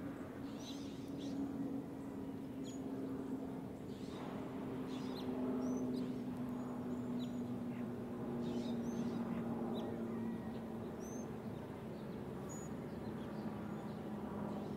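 Birds chirping, with scattered short high calls, over a low steady hum that slowly sinks in pitch.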